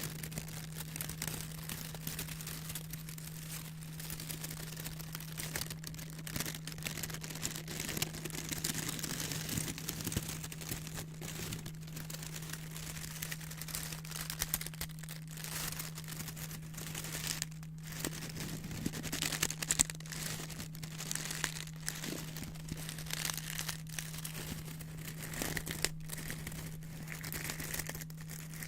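White paper being rustled and cut with scissors: continuous crinkling with many short, sharp snips. A steady low hum runs underneath.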